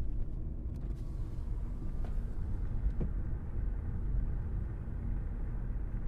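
A car driving, a steady low rumble of engine and road noise with a faint constant hum.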